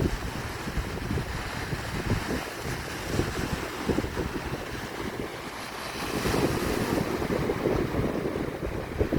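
Sea surf washing onto the shore, with wind buffeting the microphone in gusts; the wash grows louder about six seconds in.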